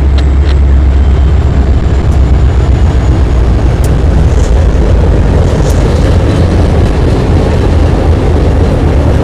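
Diesel freight locomotives (an SD70ACe, a CW40-8, two SD40-2s and an MP15DC) passing on a steel trestle bridge with a heavy, deep engine rumble. About halfway through, the rolling noise of loaded hopper cars takes over as the wagons follow.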